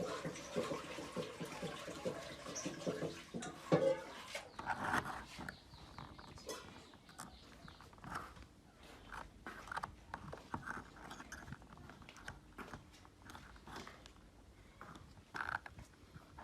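Hand work on small metal parts: about four seconds of rapid scraping or rubbing strokes, then scattered light clicks and taps of metal on metal.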